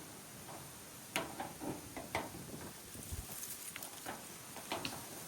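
A handful of sharp, irregularly spaced knocks and clinks from scrap metal parts of a washer and dryer being handled and pulled apart.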